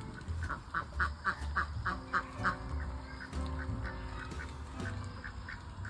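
Domestic ducks quacking: a quick run of short, repeated calls, then scattered quacks.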